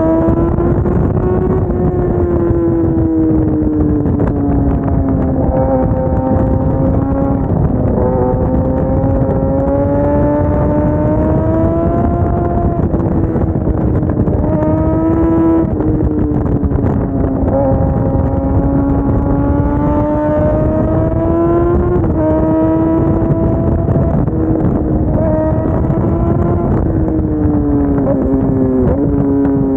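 Suzuki GSX-R sport bike engine running under way. Its pitch slowly rises and falls with the throttle and drops suddenly a few times, over a steady rush of wind noise.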